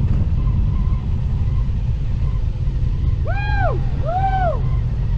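Steady low rumble of a road-racing motorcycle heard from onboard. Two short high calls that rise and fall come a little past halfway.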